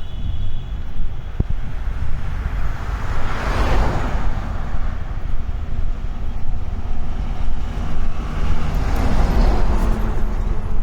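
Two vehicles passing on a road, one after the other: the first swells and fades about three and a half seconds in, the second near the end. A steady low rumble runs underneath.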